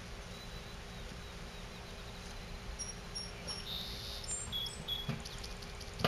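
Faint outdoor ambience with a steady low rumble, and a bird calling high short notes: three in a row about halfway through, then a few more chirps. Soft knocks near the end.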